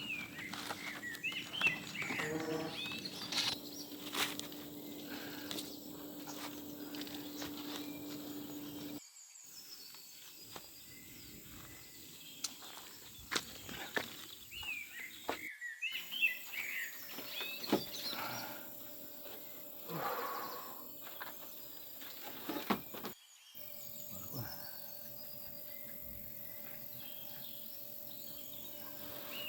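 Outdoor ambience with small birds chirping now and then, scattered clicks and knocks, and a low steady hum in the first third. The sound cuts abruptly a few times.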